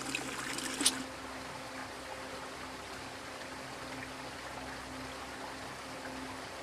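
Creek water running steadily, with one short sharp click about a second in.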